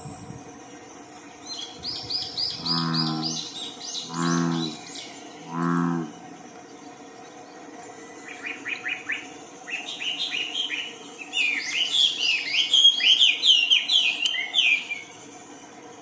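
Wild birds singing: bursts of rapid repeated chirps and whistles, loudest near the end, over a steady insect drone. Three short, low calls sound about a second and a half apart a few seconds in.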